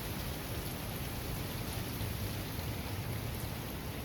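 Steady rain falling in a thunderstorm, an even hiss with a low rumble underneath.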